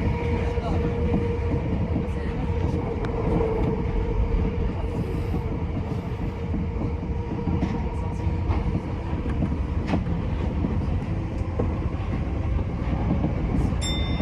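Tokyo Metro 10000 series electric train running at speed: a steady rumble of wheels on rail with scattered clicks. A faint steady motor hum fades after the first few seconds, and a short high ringing tone comes near the end.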